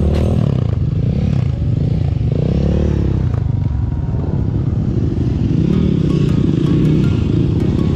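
Dirt-bike engine heard from the rider's own machine while riding. Its pitch rises and falls with the throttle near the start and again a couple of seconds in, then it runs more steadily at cruising speed.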